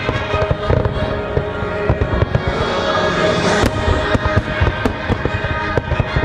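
Fireworks bursting in rapid succession, many booms and cracks a second, over the show's orchestral soundtrack music.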